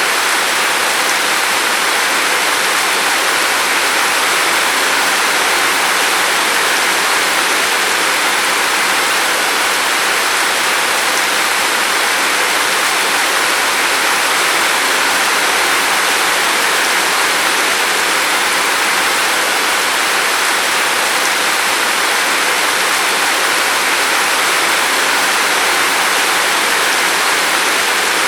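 Steady heavy rain falling, a dense, even hiss that does not change.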